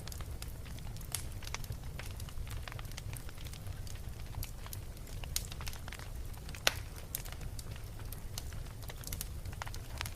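Wood fire crackling in a fireplace: irregular pops and snaps over a steady low noise of the flames. The loudest, sharpest pop comes about six and a half seconds in.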